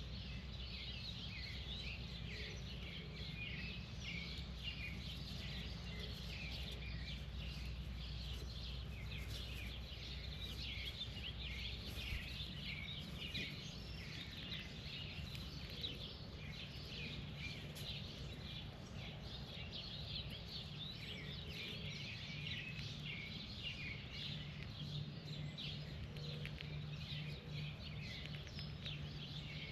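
Many small birds chirping continuously, a dense stream of short, high chirps, over a steady low background rumble.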